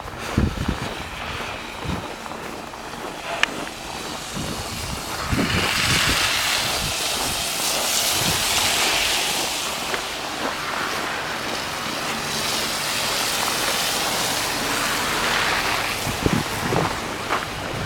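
Traffic passing on a snowy city street, a rushing tyre hiss that swells about five seconds in and eases off near the end, with low thumps from the camera being carried.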